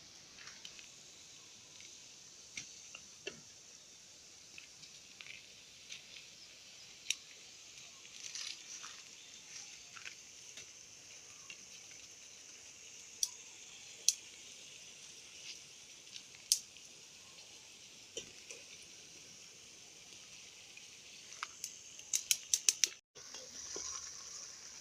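Faint steady sizzle of food frying in hot oil in a pan, with sharp scattered pops and clicks, and a quick run of them near the end.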